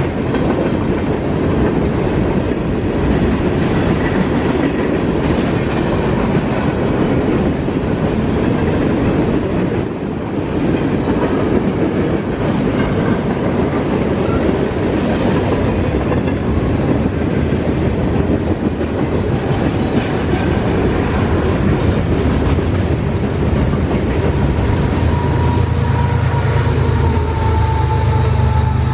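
Freight train passing close by: steel wheels of boxcars rolling and clacking over the rail joints in a steady, loud rumble. Near the end a mid-train CSX diesel locomotive passes, adding a low, steady engine drone.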